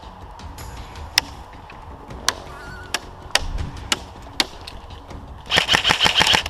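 Airsoft guns firing: scattered single sharp shots through the first few seconds, then a rapid automatic burst lasting about a second near the end.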